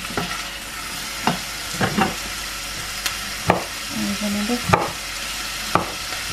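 Onions and peppers sizzling steadily as they fry in olive oil in a stainless steel saucepan. Scattered sharp knocks come over the sizzle as a knife chops garlic on a wooden chopping board.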